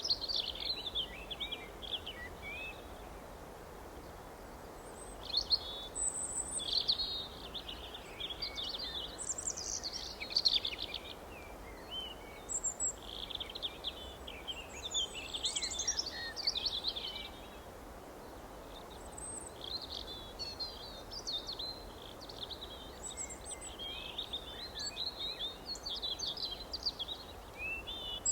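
Several small songbirds chirping and twittering in quick bursts of high notes, with short lulls between bouts, over a steady faint outdoor background hiss.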